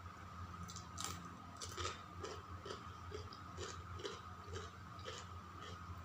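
A person chewing food close to the microphone, with short wet clicks about twice a second.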